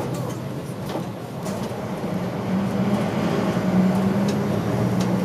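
Diesel engine of a route bus running while it drives, heard from inside the cabin, its pitch climbing a little after about two seconds and then holding. A few light rattles and clicks come through.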